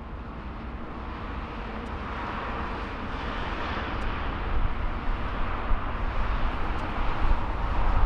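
Jet airliner engines: a steady rushing noise that grows louder throughout.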